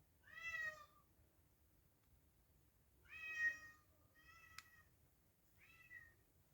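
A cat meowing four times: two longer meows, one near the start and one about three seconds in, then two short, fainter ones.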